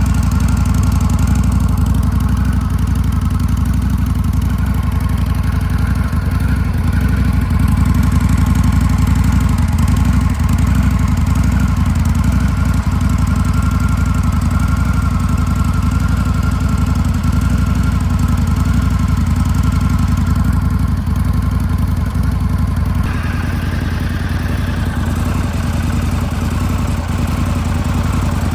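2025 Indian Scout Bobber Limited's 1250 cc liquid-cooled V-twin idling steadily, with no revving.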